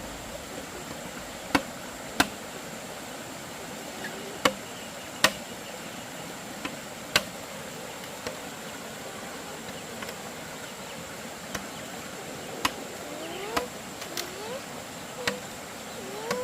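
Sharp, irregular knocks of tools striking bamboo, about a dozen spread unevenly, over a steady high insect drone. A few short rising chirps come in near the end.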